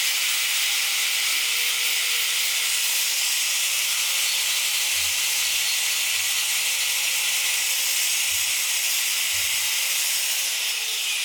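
A steady, loud hiss like spraying air, constant throughout with no breaks.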